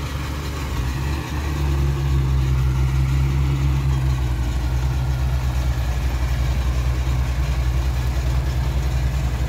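A heavy vehicle engine running close by, getting louder about a second and a half in, then holding steady with an even low pulsing.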